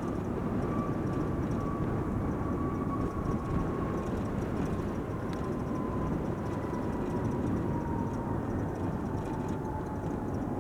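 Cessna Citation CJ4 business jet's twin turbofans on the landing roll: a steady rumble with a thin jet whine that slowly falls in pitch.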